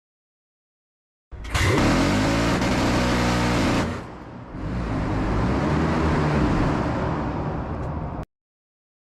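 Phalanx CIWS 20 mm six-barrel Gatling gun firing a sustained burst, a continuous buzzing drone about a second in, then after a short dip a second, somewhat quieter stretch of firing that stops abruptly.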